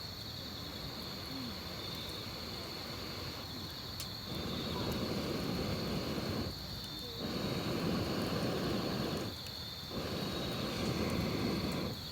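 Rushing bursts of air into a campfire, about three seconds each with short breaks between, as it is blown through a blow pipe to make it flare. A steady high insect trill runs underneath.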